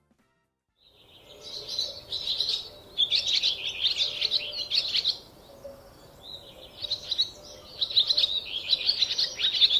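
Songbird singing: two long phrases of quick, high chirping notes with a short pause between, starting about a second in.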